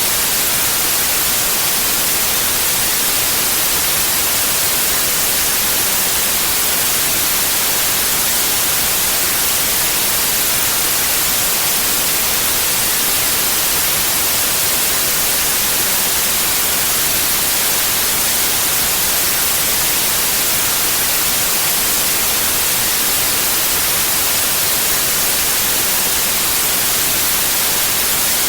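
Steady white noise: an even, unchanging hiss, brightest in the highest frequencies.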